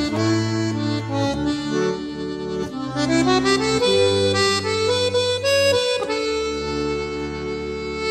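Accordion music: a melody of held notes over long, sustained bass notes.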